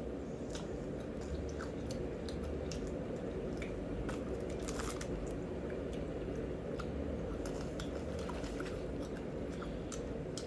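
Close-miked chewing of food, with scattered small crisp clicks and wet mouth sounds over a steady low hum.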